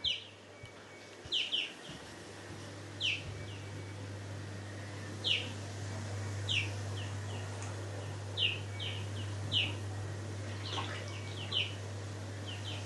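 A bird calling over and over in short, quickly falling chirps, one every second or two, over the steady low hum of a running hot tub pump that grows gradually louder.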